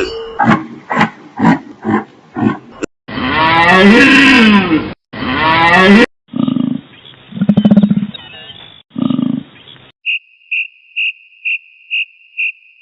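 A sequence of different animal calls spliced back to back. First comes a run of short, evenly spaced calls, then a long roar about 3 seconds in, then three deep, low bellowing calls, and near the end a high, thin note repeated about four times a second.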